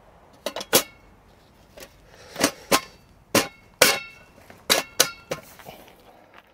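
Sharp metallic clacks and knocks, about ten spread over several seconds, some with a brief ring, as an aluminium camping box is handled and its fold-out legs and lid are worked.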